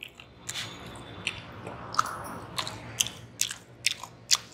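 A person chewing food close to the microphone, with a regular run of sharp crunches or mouth smacks, about two a second, in the second half.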